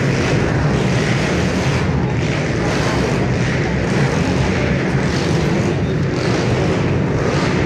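Pit bike engines running at race pace as a loud, steady din, swelling and easing repeatedly as they rev.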